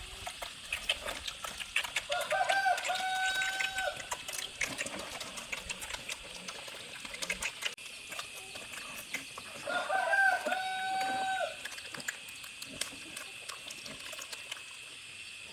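A rooster crowing twice, about eight seconds apart, each crow a long held call that drops off at the end. Scattered small clicks and rustles run underneath.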